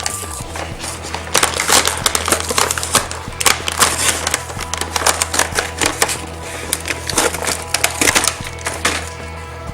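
Toy packaging being opened and handled, with irregular crinkling and clicking throughout, over background music with a steady bass line.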